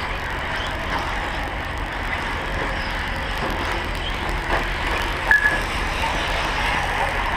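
The small engines of several radio-controlled short-course race trucks running around the track together, a steady overlapping drone.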